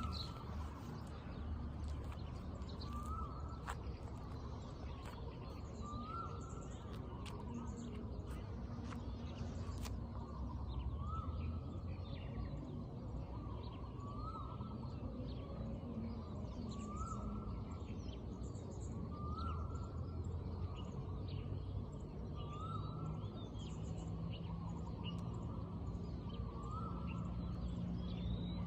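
Birds calling: one bird repeats a short rising-and-falling note about every three seconds while other birds chirp in quick, higher notes, over a steady low rumble of background noise.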